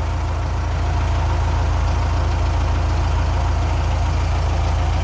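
Kubota M9960D diesel tractor running steadily with the shuttle in forward and the gear range in park, a steady low drone. A noise is coming from the transmission case in this gear, the fault being diagnosed.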